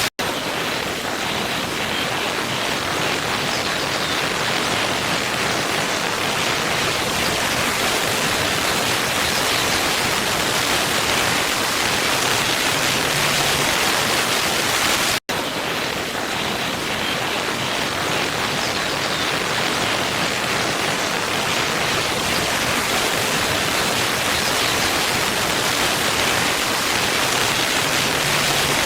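Steady rushing of a waterfall, with a split-second gap in the sound just after the start and again about halfway through.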